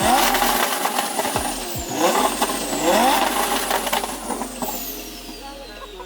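A car engine accelerating hard, its pitch rising again and again as it shifts up through the gears, then fading as the car pulls away.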